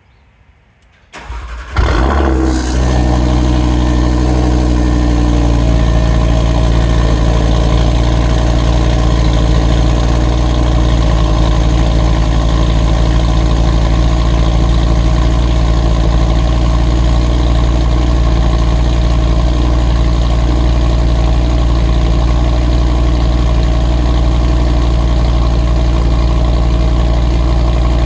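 Audi TT RS 8S's turbocharged 2.5-litre inline five-cylinder, breathing through a titanium valved exhaust and aftermarket downpipe, is cranked over and catches about two seconds in with a brief flare of revs. It then settles into a loud, steady idle.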